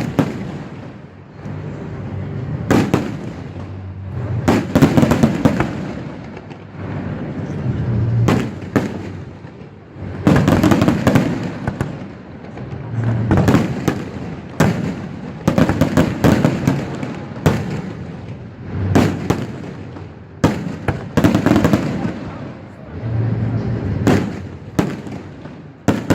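Aerial fireworks display: shells bursting in repeated volleys of sharp bangs, a cluster every two to three seconds, with low rumbling between the volleys.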